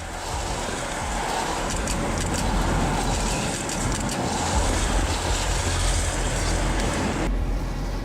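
Loud, steady rushing noise of a vehicle and wind with a deep rumble, cutting off abruptly about seven seconds in.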